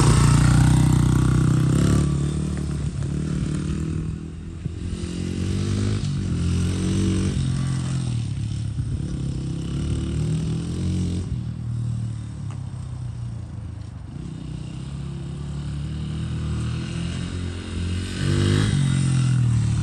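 2005 Honda CRF80's small single-cylinder four-stroke engine running after a roll start, its speed rising and falling several times. It is freshly revived after sitting for years and still smoking as it clears out.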